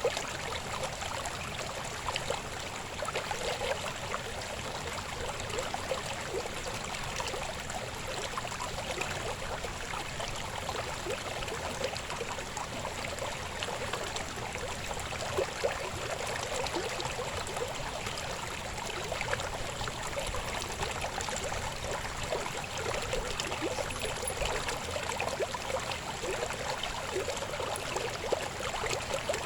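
River babbling over rocks: a steady rushing flow with constant small splashes and gurgles.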